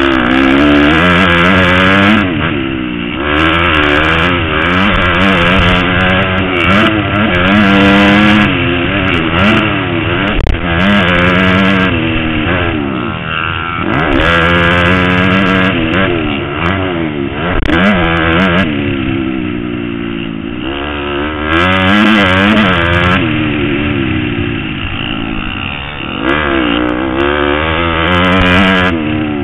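Motocross motorcycle engine being ridden hard. It revs up and drops back over and over as the rider accelerates, shifts and brakes around the track.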